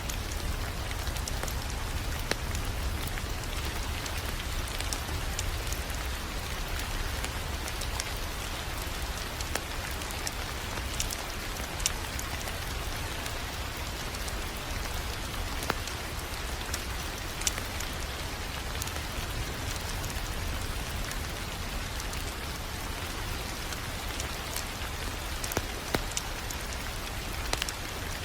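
Wood fire crackling in a fireplace: a steady hiss and low rumble with scattered sharp pops.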